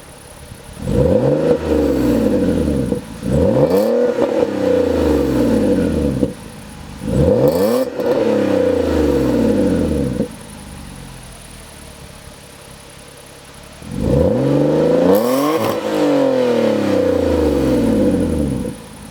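Peugeot 407 Coupé's 3.0 V6 petrol engine revved four times through a cat-back exhaust with no middle silencer. Each rev climbs quickly, holds high for a couple of seconds and drops back to idle, with a longer idle before the last rev.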